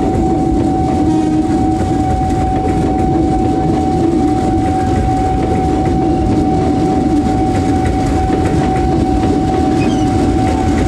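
Commuter train passing close at speed: steady rumble of wheels on rail with some clickety-clack over the rail joints, and a steady high-pitched tone throughout.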